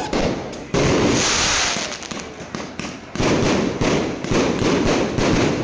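Fireworks bursting as a series of sharp bangs, each trailing off into crackling. There is a lull of about two seconds after the first two bangs, then the bursts come roughly every two-thirds of a second.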